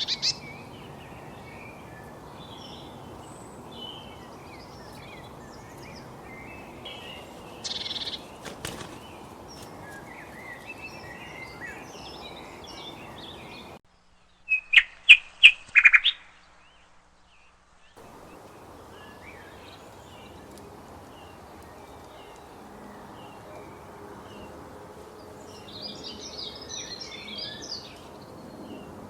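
Small songbirds chirping and calling over a steady background hiss, with a run of five or six loud, sharp notes about halfway through and a dense flurry of chirps near the end.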